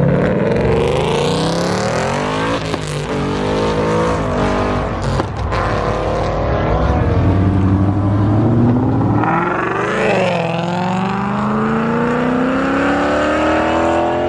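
Performance cars accelerating hard, engines revving up and climbing in pitch through several gear changes, with a few sharp cracks in the first half and another long rising pull in the second half.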